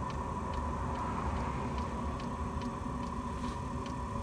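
Chinese diesel heater running just after its burner has caught light: the fuel dosing pump clicks about twice a second over the steady whirr of the combustion fan and burner exhaust.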